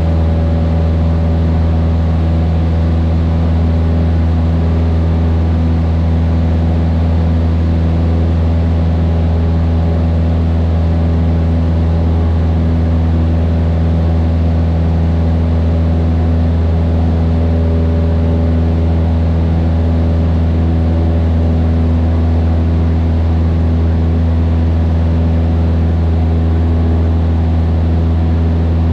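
Cessna 152's four-cylinder Lycoming O-235 engine and propeller running at a steady, constant power, a loud, even drone heard inside the cockpit.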